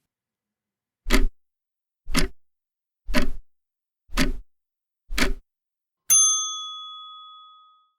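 Countdown timer sound effect: five clock ticks about a second apart, then a single bell ding that rings out and fades over about two seconds.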